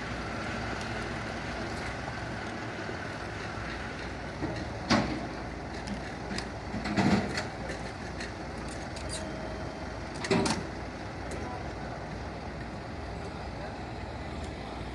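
Heavy vehicle engine idling steadily, with three short knocks or clunks about five, seven and ten seconds in.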